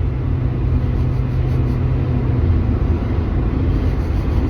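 Steady engine drone and road noise inside the cabin of a 2003 Acura RSX with a four-cylinder engine, cruising at highway speed. A low steady hum fades out about two seconds in.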